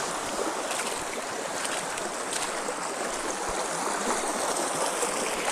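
Steady rush of stream water flowing.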